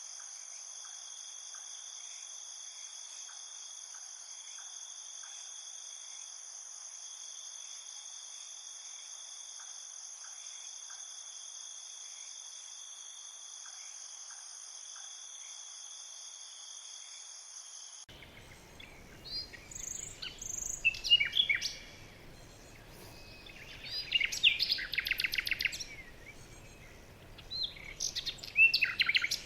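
A steady, high-pitched chorus of insects, crickets or similar, which stops abruptly about two-thirds of the way in. Songbirds then sing three short bursts of fast trilling chirps.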